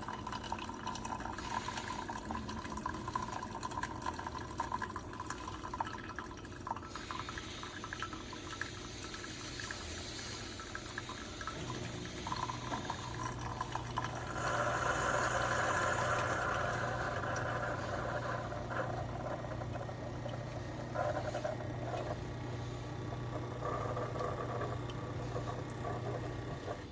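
Keurig K-Slim pod coffee maker brewing: liquid streaming and trickling into a cup. A steady low pump hum joins about halfway through, and the flow gets louder a few seconds later.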